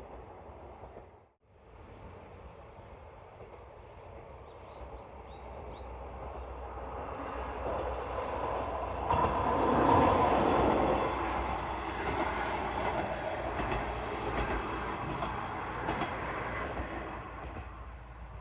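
A train passing: the sound cuts out briefly about a second in, then the train approaches, is loudest about halfway through and slowly fades away.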